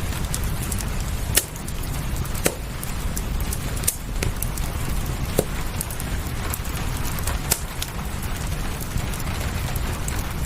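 Fireplace crackling, with sharp pops every second or two and many smaller ticks, over a steady background of rain with a low rumble.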